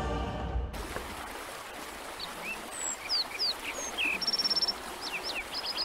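Forest ambience of small birds chirping and whistling, with short sweeping notes and a quick trill about halfway, over a steady hiss of background noise. A music cue cuts off just under a second in.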